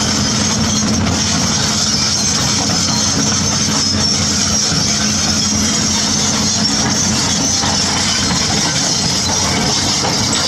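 Heavy construction machinery running steadily: a diesel engine holds a constant low note, with a continuous high-pitched mechanical hiss above it.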